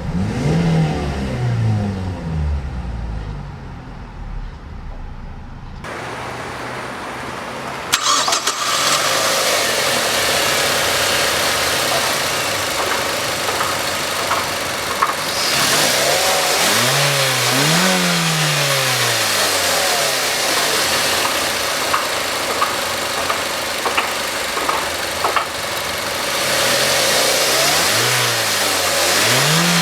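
A 2006 Mazda 6's engine being revved while the car stands still: quick blips near the start, two rises and falls about halfway through, and another near the end, settling back to idle in between. About eight seconds in, a steady hiss suddenly joins the engine sound and stays.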